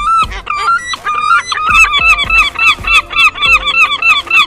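Seagull calling: longer, irregular calls at first, then a rapid run of short, yelping calls, about four a second.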